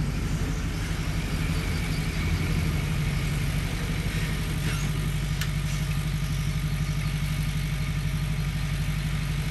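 Heavy diesel engine of earthmoving equipment running steadily at low revs, with an even rapid throb.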